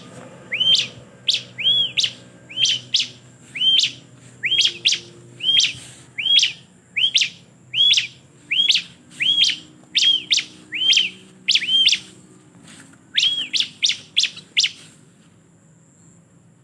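Ciblek (bar-winged prinia) calling over and over, about one sharp arching chirp a second, sometimes doubled. The calls stop about fifteen seconds in.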